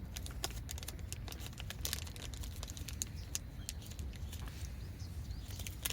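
Campfire crackling: irregular sharp pops and snaps, some close together, over a low steady rumble.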